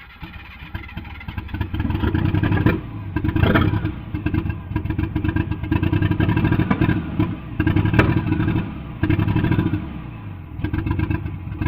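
Nissan RB25DET straight-six catching about a second in and running roughly, surging and sagging unevenly, on its first startup. It runs with no air flow meter, idle air control or coolant connected and the turbo not hooked up, only to check the coil and injector wiring.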